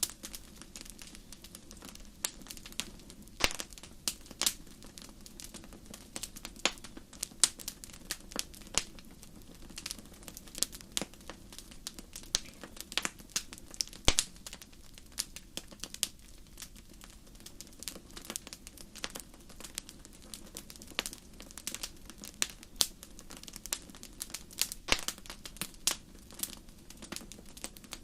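Wood fire burning in a fireplace, crackling and popping with many irregular sharp snaps over a faint low rumble of the flames.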